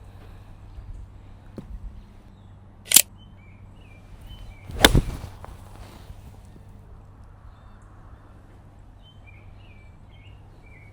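A 6-iron striking a golf ball off the tee: a sharp, loud crack about five seconds in, preceded about two seconds earlier by a shorter sharp swish or click. Small birds chirp intermittently after the shot.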